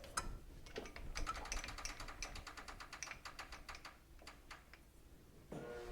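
Faint, rapid, irregular light clicking and clinking of small metal tools being handled. About five and a half seconds in, an electric motor starts and runs with a steady hum.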